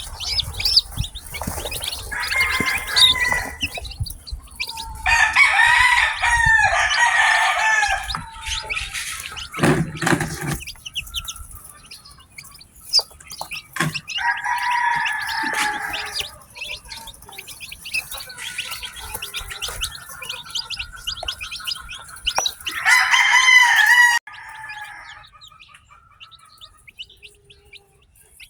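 A brood of newly hatched chicks peeping in rapid, high chirps throughout. Four times, a longer, louder and lower call stands out, the longest lasting about three seconds. There is a dull thump about ten seconds in.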